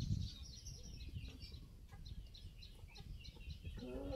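Birds chirping: many short, high calls in quick succession over a low steady rumble, with a lower call near the end.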